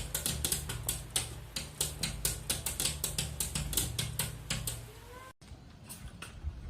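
Rapid tapping or clicking, about five or six sharp clicks a second, over a steady low hum. A short rising squeak comes a little before five seconds in, then the sound cuts off abruptly and gives way to quieter, irregular low sounds.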